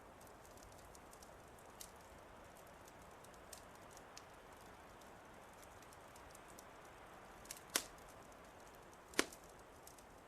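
Wood fire crackling: scattered small snaps over a soft, steady hiss, with two loud sharp pops near the end.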